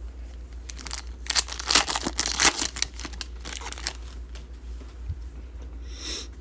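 Wrapper of a 2019-20 Select NBA trading-card pack crinkling as it is torn open, a dense crackling that comes in about a second in and is loudest in the middle, with a brief rustle near the end.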